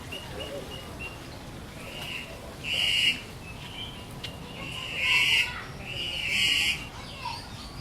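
Birds calling: a few short chirps early on, then three loud calls of about half a second each, about three, five and six and a half seconds in.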